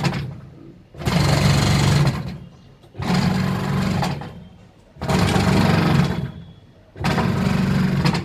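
IFB washing machine running in repeated pulses, each about a second long with a sharp start and then dying away, about every two seconds.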